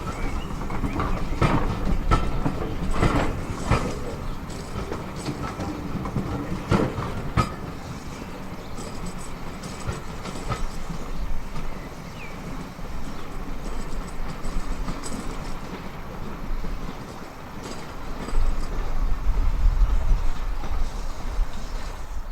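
Heritage railway train running on the track: irregular clicks of the wheels over rail joints in the first several seconds, over a steady low rumble that grows louder near the end.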